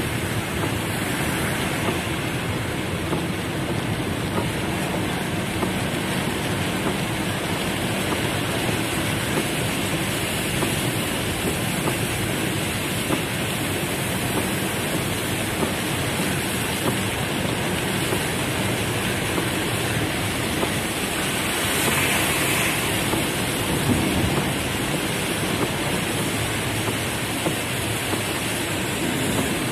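Heavy rain falling on a car's roof and windows, heard from inside the car: a steady, dense patter that swells briefly about three-quarters of the way through.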